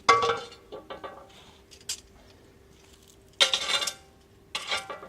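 Two clattering clinks with a short ring, like hard objects knocked on metal or crockery: one right at the start and another about three and a half seconds in, with a few small ticks between.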